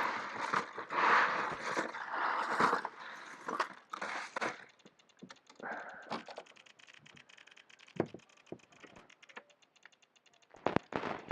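Crackling, rustling handling noise with many clicks, loudest for the first few seconds, then fainter scattered clicks and knocks, with a cluster of sharp clicks near the end.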